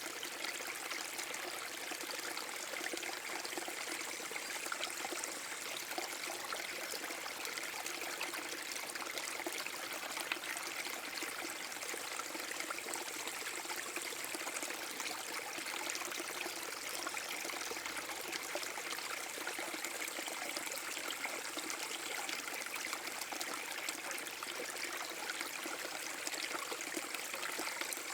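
Small forest-brook waterfall splashing and trickling steadily, a continuous hiss of flowing water.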